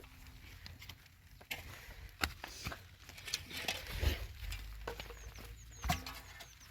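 Faint, scattered taps and knocks at irregular intervals, with a few brief high chirps about five seconds in.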